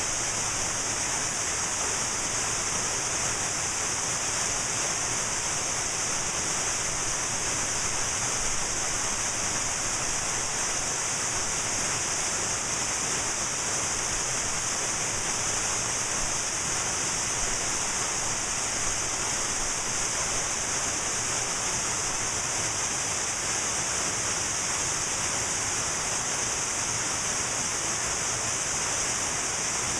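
Cascading mountain waterfall: a steady, even rush of falling water with a strong hiss.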